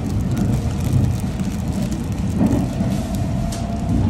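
Steady low rumble of the Sunrise Express Seto sleeper train, a 285 series electric train, running along the track as heard from inside the carriage, with scattered faint clicks and a faint whine that comes in about halfway through.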